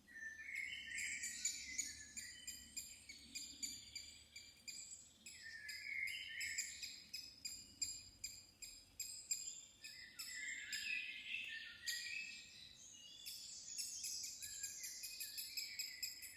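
Several birds singing at once: overlapping, falling song phrases with rapid high chirps throughout.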